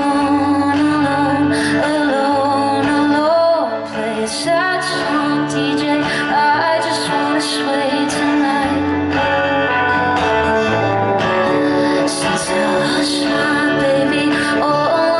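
Female singer singing a pop song live over instrumental backing, with low bass notes that change every second or two beneath the voice.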